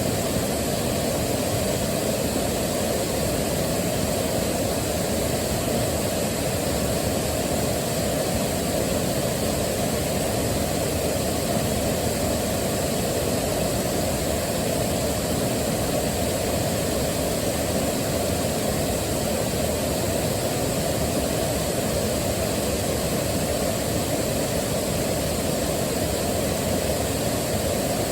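Waterfall: a steady rush of falling water, deep and even, with no change in the flow.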